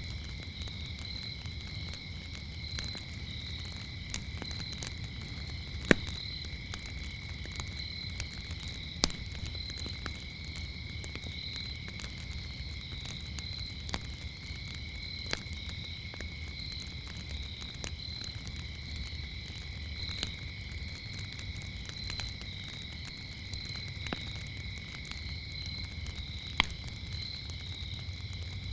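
Wood fire crackling with scattered snaps and a few louder pops, the loudest about six seconds in, over a low rumble. Crickets chirp steadily throughout as a continuous high trill.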